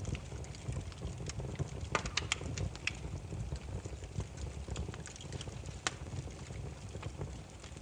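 Burning firewood crackling: a steady low rumble of flame with irregular sharp pops and snaps, a cluster of louder snaps about two seconds in and one loud pop near six seconds.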